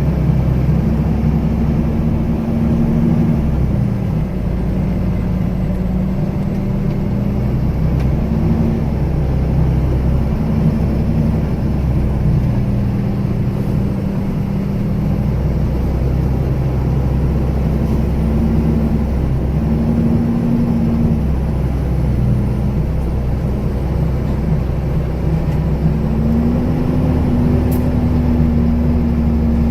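The engine of a 26-foot Penske box moving truck running under way, its low note stepping up and down in pitch several times and rising and holding near the end.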